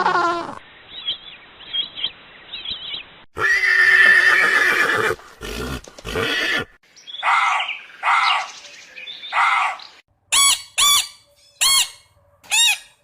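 A run of different animal calls: a long whinny-like call, then three calls about a second apart, then four short, sharp calls close together near the end.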